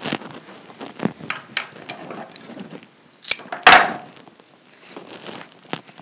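Small knocks, taps and rustles of hands working flower stems into an arrangement, with the loudest clatter about three and a half seconds in.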